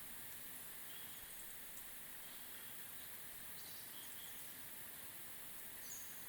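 Faint forest ambience: a steady high hiss with scattered short, high bird chirps.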